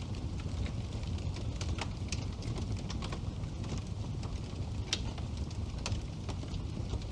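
Wood fire burning in a fireplace: a steady low rumble of flame with scattered sharp crackles and pops, the loudest pop about five seconds in.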